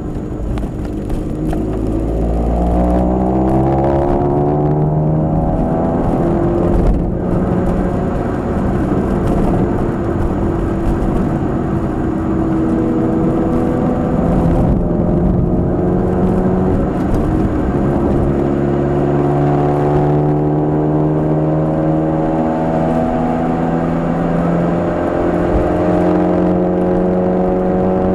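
Nissan March (Micra) K12 12SR's 1.2-litre four-cylinder engine through a Kakimoto aftermarket exhaust, heard from inside the car while driving. The engine note climbs in pitch over the first few seconds, drops back and runs steadily, then climbs slowly again through the second half.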